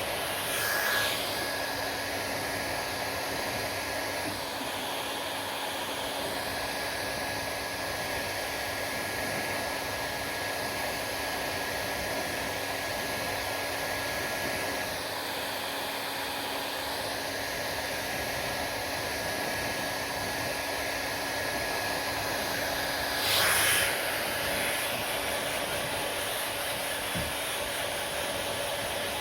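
Hair dryer running steadily: a continuous rushing blow with a thin steady whine, swelling briefly twice.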